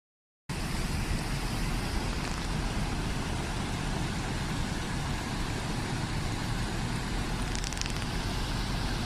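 Floodwater rushing down a wadi: a steady, unbroken rushing noise with a heavy low rumble, starting just after half a second in.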